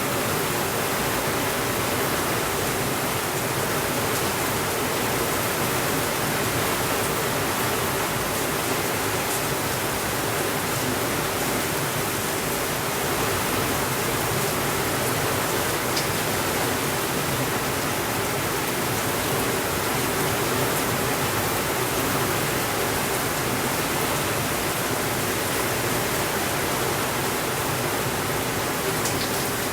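Steady rainfall, an even, unbroken hiss with no thunder, and a couple of faint ticks.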